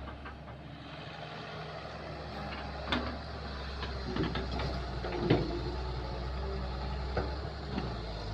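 Kobelco excavator's diesel engine running steadily with a low hum, with a few sharp knocks from the machine working, the loudest about five seconds in.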